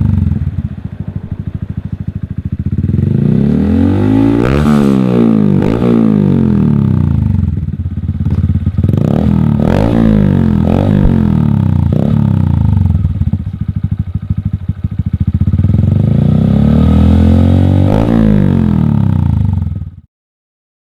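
Honda Grom 125's single-cylinder engine heard through its exhaust, revved up and down repeatedly, with a few quick throttle blips in the middle and a long climb in revs near the end. The sound cuts off abruptly about 20 seconds in.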